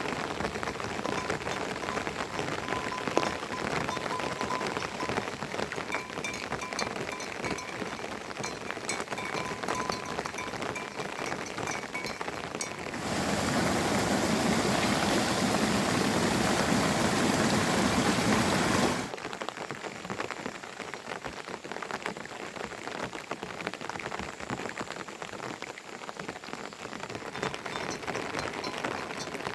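Rain falling steadily with many drops pattering on surfaces. It grows louder and denser for about six seconds midway, then eases off.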